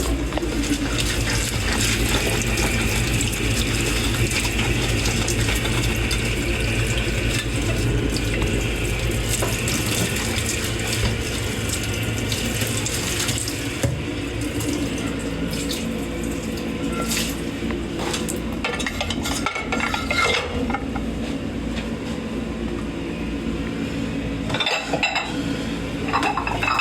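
Dishes being washed by hand in a kitchen sink: water runs steadily while plates and cutlery clink now and then. The clinks come in clusters about two-thirds of the way through and near the end.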